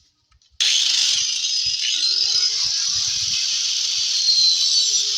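Electric power tool switching on about half a second in and running steadily, cutting out the hole in the subwoofer speaker box.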